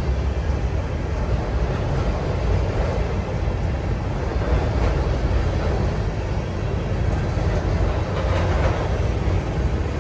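Empty bulkhead flatcars of a freight train rolling past close by. Their steel wheels on the rails make a steady rumble.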